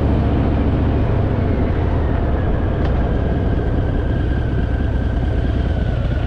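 Harley-Davidson motorcycle's V-twin engine running steadily while riding at road speed, with a dense low rumble and a faint slowly drifting whine higher up.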